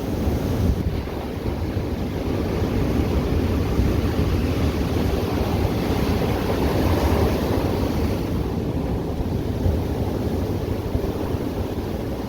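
Ocean surf breaking and washing up the beach, a steady low rumble with slow swells in loudness, with wind on the microphone.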